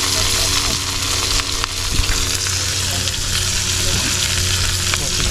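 Crayfish frying on a hot cooking surface: a steady sizzling hiss, with a few light clicks and a steady low hum underneath.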